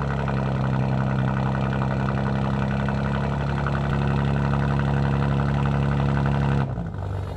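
BMW G80 M3's twin-turbo inline-six idling steadily through an IRL modular catback exhaust with 4-inch tips. Near the end the sound changes abruptly and drops in level.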